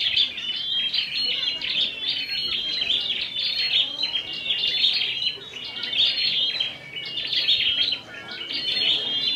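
Several prinias (prenjak) singing at once, a dense stream of rapid, high chirps and trills that briefly thins twice near the end.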